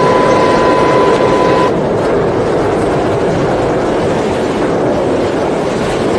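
Shake-table earthquake test running, a loud steady rumbling noise. A steady high tone sounds over it and stops about a second and a half in.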